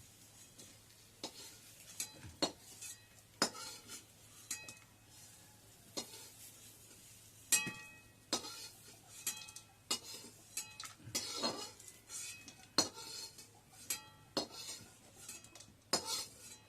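Metal kitchen utensils knocking and clinking against pots and bowls, irregular sharp knocks, some ringing briefly, coming more often in the second half.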